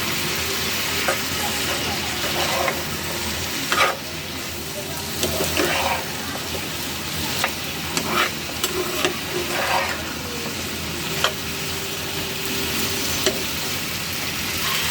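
Okra and potatoes sizzling in hot oil and spice paste in a cooking pan. A spatula stirs them, with irregular scrapes and taps against the pan.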